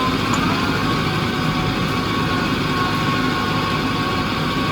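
Tractor engine running steadily, with a thin whine that rises slightly at first and then holds an even pitch.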